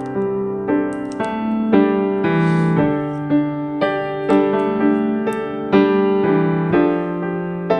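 Background piano music: a slow melody of single notes and chords, a new note struck about every half second to second.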